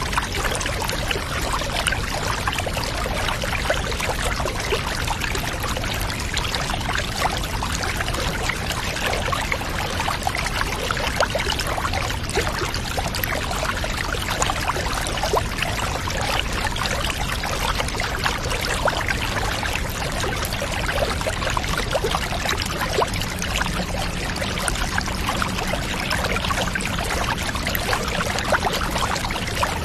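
Water pouring and trickling steadily into a bath, a dense splashing hiss. A faint low hum joins about two-thirds of the way in.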